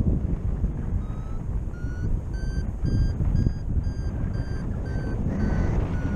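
Paragliding variometer beeping, starting about a second in: short tones about two a second, their pitch climbing over the first few beeps and then holding, the vario's signal that the glider is climbing in lift. Wind rushes over the microphone underneath.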